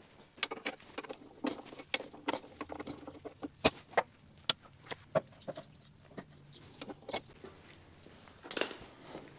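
Hand tools clicking and knocking against metal in an irregular string of sharp taps while a sheet-metal panel is being unbolted from a tractor engine, with a brief scrape near the end.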